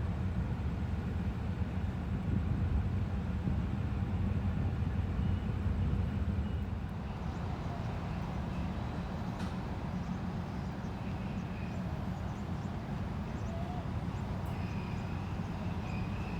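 Diesel train engine running steadily with a low rumble, easing slightly about six seconds in.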